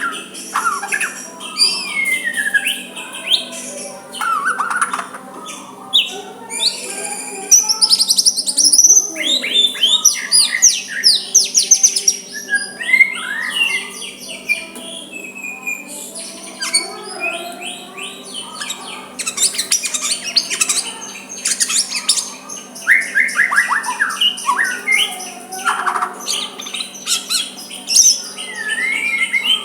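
White-rumped shama (murai batu) singing a long, varied song: clear whistles, rapid series of sweeping notes and trills, and harsher calls, with hardly a pause. A steady low hum runs beneath.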